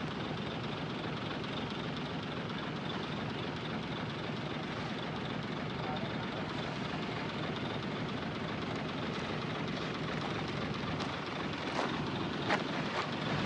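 Heavy diesel earthmoving machinery running steadily, with a few short sharp clanks near the end.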